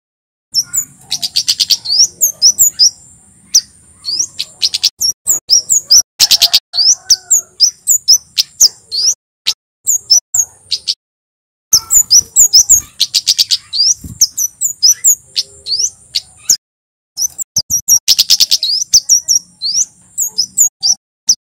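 Male kemade flowerpecker singing: rapid strings of short, sharp, high-pitched notes that fall in pitch. The song comes in four bouts of several seconds each, with brief pauses between them.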